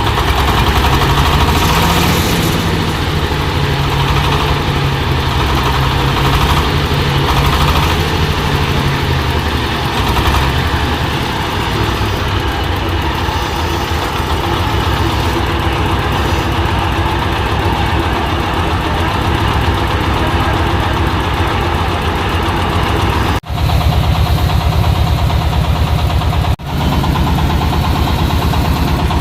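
A 26 HP Dong Feng single-cylinder diesel engine running steadily, driving a corn sheller. The sound drops out for an instant twice near the end.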